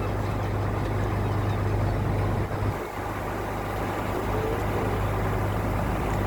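Pleasure boat's engine running steadily with a constant low hum, dipping briefly about three seconds in.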